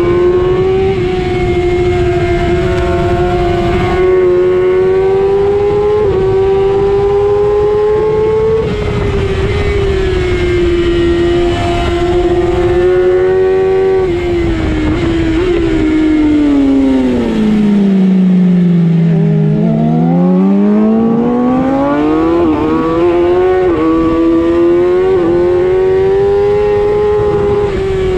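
Racing motorcycle engine heard from onboard at high revs, holding a high note with quick steps at each gear change, over steady wind rush. About two-thirds of the way through the revs fall steeply as the bike slows for a corner, then climb back up through the gears.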